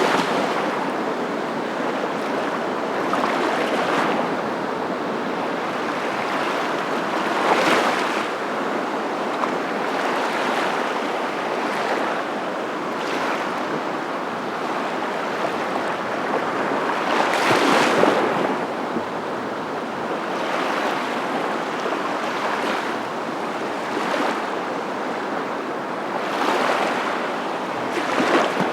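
Surf: a steady rush of water noise that swells every four to five seconds as waves break.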